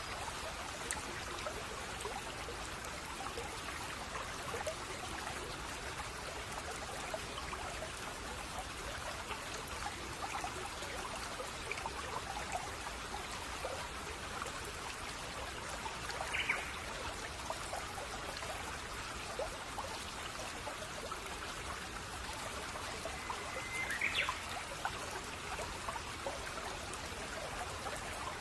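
Shallow brook babbling and trickling steadily, with two short bird chirps partway through.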